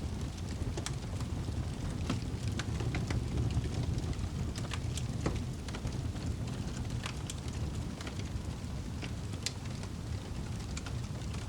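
Wood fire crackling: irregular sharp pops and snaps, a dozen or so, over a steady low rumble of the flames.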